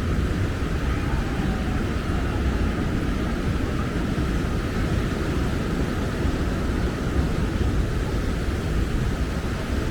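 Steady rushing noise of the open beach: wind buffeting the microphone over the wash of surf, with a heavy, unsteady low rumble.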